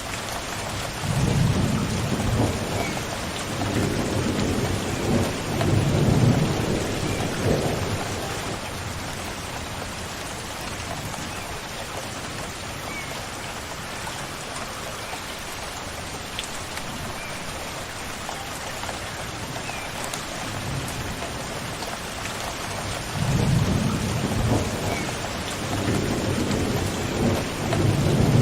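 Steady rain falling, with two long rolls of thunder: one rumbling for several seconds near the start and another building near the end.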